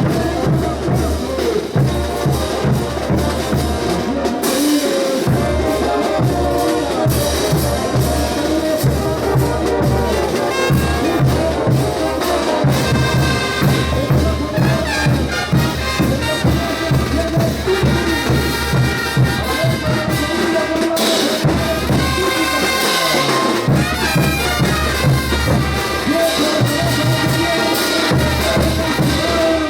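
Bolivian brass band playing a ch'uta dance tune: trumpets and trombones carrying the melody over a steady bass drum beat.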